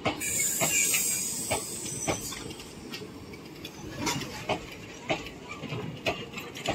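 Indian Railways passenger coaches rolling past, the wheels knocking irregularly over rail joints under a steady rumble, with a high hiss through the first two seconds.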